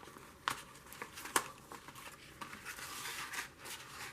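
Paper rustling and being handled, with a few light taps, the loudest about one and a half seconds in, as a journal page is slipped back into a journal.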